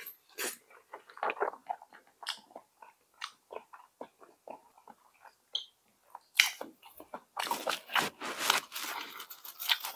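Close-miked eating of cheonggukjang stew: soft chewing and lip-smacking clicks, then from about six seconds in louder, crisp crackling.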